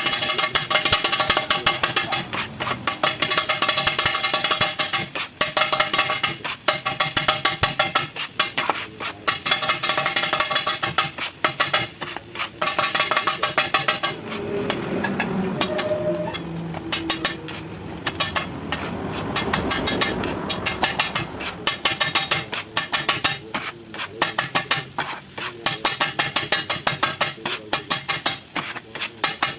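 Rapid, rhythmic clanging of metal spatulas chopping kothu parotta on a hot iron griddle, each strike ringing, with frying sizzle underneath. The chopping eases off for several seconds about halfway through, then picks up again.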